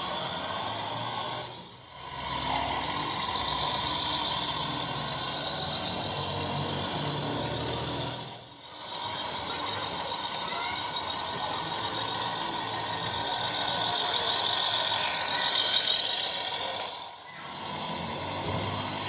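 An RC tipper truck's electronic sound module playing diesel truck engine sounds, with a steady high tone over a low engine hum. The sound dips out briefly three times.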